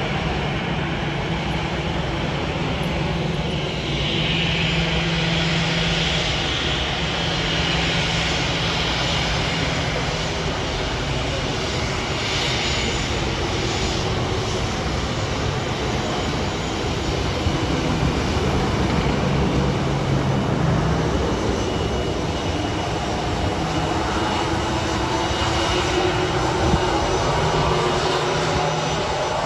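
Fixed-wing aircraft engines running, a steady, loud noise with a low hum. Gliding, sweeping tones come in over the last few seconds as the aircraft moves.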